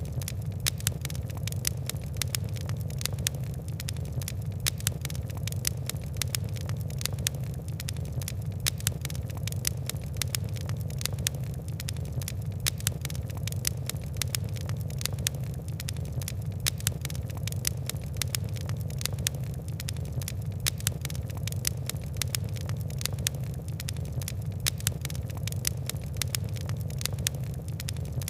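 Wood and coal fire crackling: many small, irregular pops over a steady low rumble of the flames.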